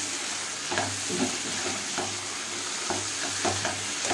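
Chicken pieces in masala sizzling in oil in a pan, while a perforated steel ladle stirs and scrapes through them in repeated strokes.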